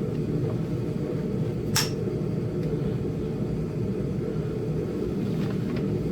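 A sharp click about two seconds in as a knapping tool strikes or presses a flake from a Flint Ridge chert point, with a few fainter ticks later, over a steady low rumble.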